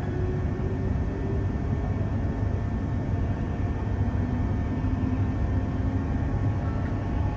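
Steady low rumble inside a Queensland Rail electric suburban train, with a few faint steady tones above it.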